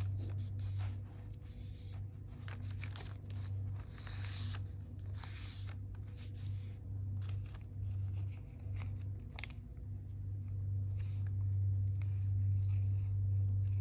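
Sheet of paper being folded and creased by hand: a run of short crinkles and rustles, some sharper crackles among them, over a steady low hum.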